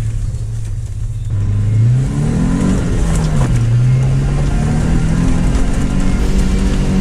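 An off-road SUV's engine pulling in low-range first gear. The engine note is steady at first, then revs up about a second in, drops back briefly, and climbs again to a steady higher pitch.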